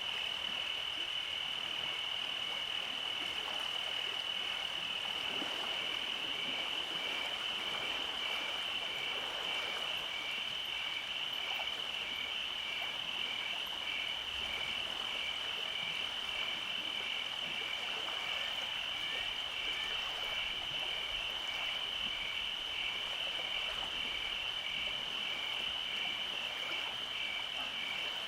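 Night chorus of frogs and insects. A steady high-pitched trill runs throughout, a lower call pulses at a regular rate beneath it, and a dense chatter of many smaller calls sits behind both.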